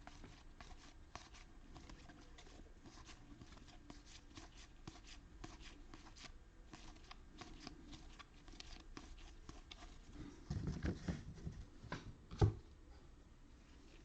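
Baseball trading cards being handled and flipped through one by one: faint, small clicks and slides of card stock. A louder spell of handling comes near the end, followed by a single sharp knock.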